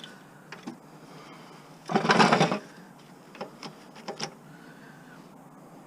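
A short clatter about two seconds in, with a few light knocks and clicks around it: parts and plastic pieces being handled while a lawn mower is stripped for scrap.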